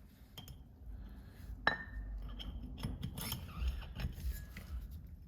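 Metal turbocharger parts clinking and scraping as they are handled and fitted together, with a sharp metallic tap and a short ring a little under two seconds in.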